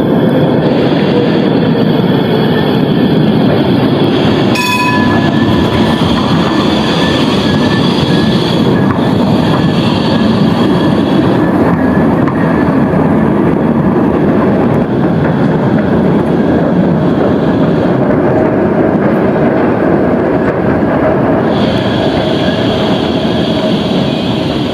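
A Berlin tram runs close by with a loud, steady rumble of wheels on rail. A motor whine falls slightly at the start and rises again later, and a high wheel squeal comes and goes. There is a single sharp clang about five seconds in.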